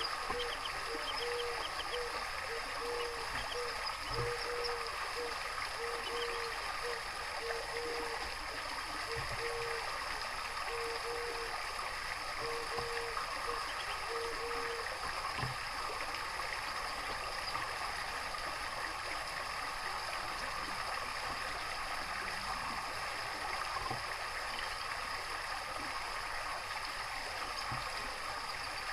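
Running water trickling and burbling steadily, as from a garden water feature. A low note repeats in short pulses through the first half, and a few faint high bird chirps sound over it.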